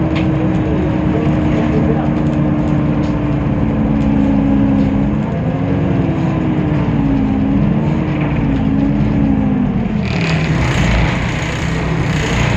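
Temsa Avenue LF city bus's DAF PR 228 diesel engine and ZF automatic gearbox running under way, a steady droning tone that wavers up and down for a few seconds past the middle. The drone then drops near the end, when a burst of hiss comes in.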